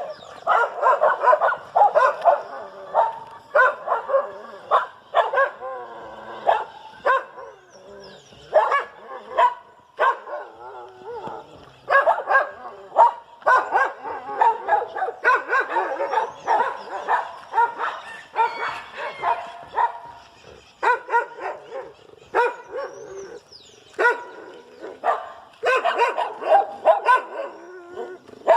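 Dog barking over and over in quick runs of short yelps, barely pausing.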